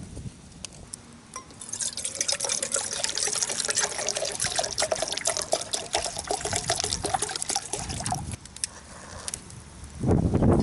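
Water being poured into a container, a steady trickling pour lasting about six seconds, followed near the end by a louder low rumble.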